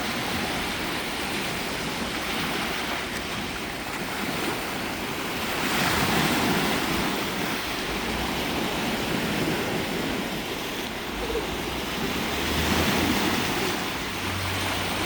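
Lake waves washing onto the shore, swelling louder and falling back every several seconds, with wind buffeting the microphone now and then.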